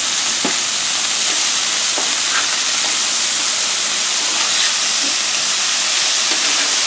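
Smashed ground beef patties sizzling on a Blackstone flat-top griddle: a steady hiss with a few faint ticks.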